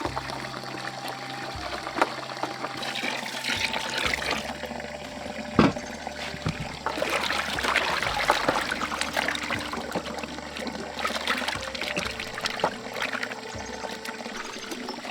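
Water trickling and pouring, with splashing and a few sharp knocks.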